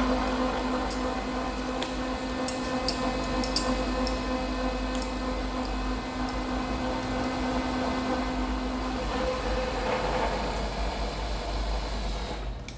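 Milling machine boring out the bore of a welded steel cylinder-rod eye: a steady machine hum with a held tone and light scattered ticks. The tone stops about nine seconds in, and the sound drops off near the end.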